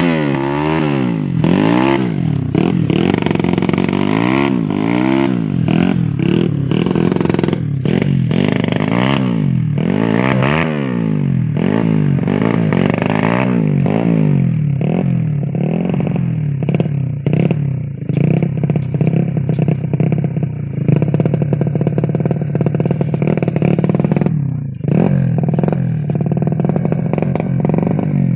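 Underbone motorcycle engine revved over and over, its pitch rising and falling about once a second, then held at higher revs with quick blips. It is loud throughout.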